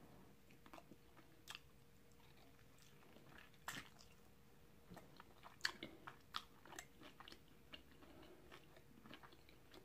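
Faint sounds of a person biting and chewing a baked chicken drumstick: scattered soft mouth clicks and smacks, a few more of them in the middle of the stretch.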